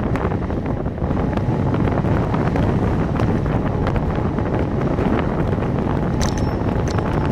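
Wind buffeting the microphone of a camera riding on a moving bicycle: a steady, loud low rumble of rushing air.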